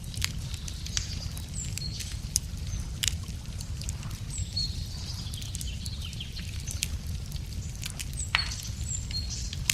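Wood campfire crackling, with sharp irregular pops over a steady low rumble. Short high bird chirps sound now and then in the background.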